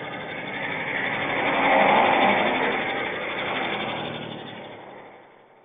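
A motor vehicle passing by: its noise swells to a peak about two seconds in, then fades away.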